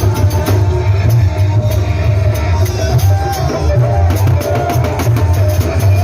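Loud amplified band music of a Sasak nyongkolan procession: a heavy, steady bass and driving drum beat under a melody line.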